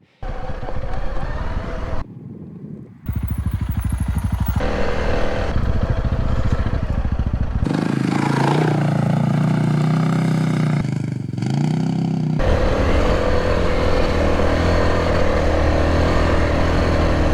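Motorcycle engines running and revving on rough off-road ground, in several short stretches that cut abruptly into one another, with the engine note rising and falling about the middle.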